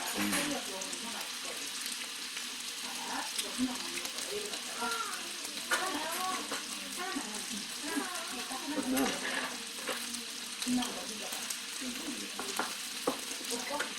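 Busy restaurant dining room: a steady hiss under faint background chatter from other diners, with scattered clicks and clinks of tableware.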